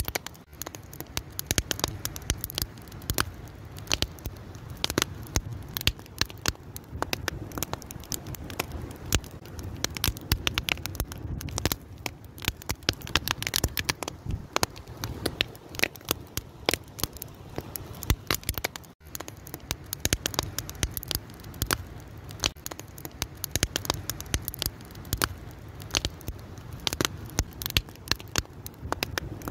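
Wood fire crackling and popping steadily, with many sharp snaps over a low rumble of burning, and a momentary break about two-thirds of the way through.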